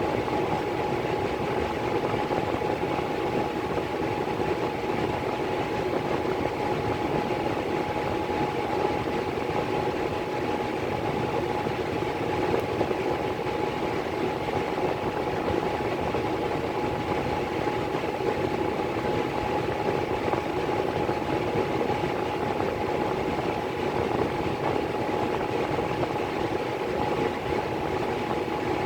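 Miller E3 furnace blower running steadily: a constant rush of moving air with a steady motor whine over it.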